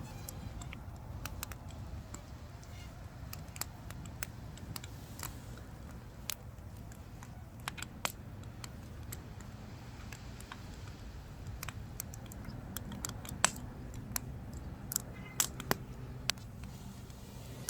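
Firewood crackling as it burns: irregular sharp pops and snaps over a low, steady rumble. The pops come more often and louder in the second half.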